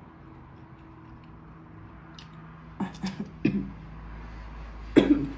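Close-miked mouth sounds of someone eating: a few short sharp clicks and smacks as food is bitten and chewed about three seconds in, then one louder short burst with voice in it near the end.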